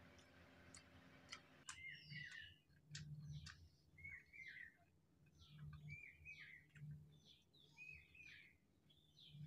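Faint chirping of small birds: short repeated chirps, about one a second, starting about two seconds in, with a few light clicks.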